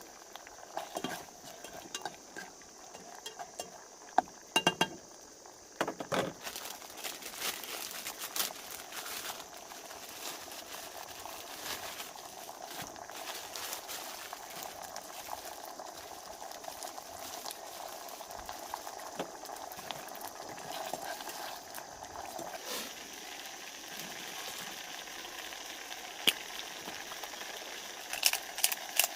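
Food cooking in a pan over heat: a steady bubbling sizzle full of small pops, which starts about six seconds in after a few knocks.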